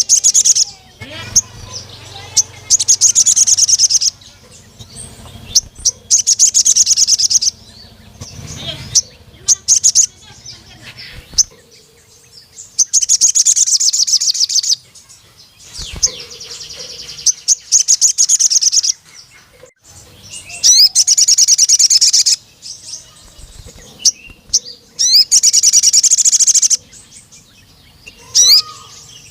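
Crimson sunbird (sogon) singing: repeated bursts of rapid, high-pitched trilling, each lasting one to two seconds, with short chirps in between. This is the male's call at a rival male.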